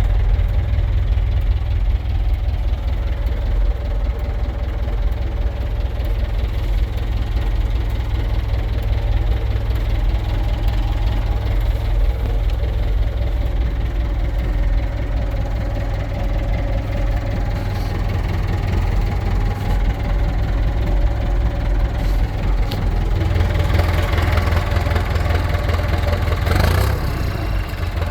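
Massey Ferguson 698 Turbo tractor's turbocharged diesel engine idling steadily, with a deep, even rumble.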